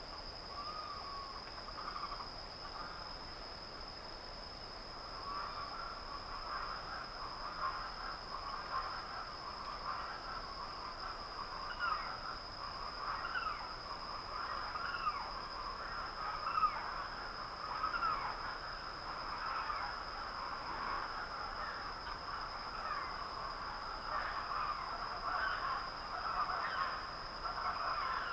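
Dawn outdoor ambience: many birds calling in short, overlapping calls that grow busier after about five seconds, over a steady high-pitched tone.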